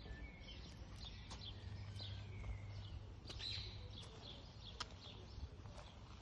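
Birds chirping in short, high calls and little gliding notes, scattered throughout, with a few sharp clicks over a low steady hum.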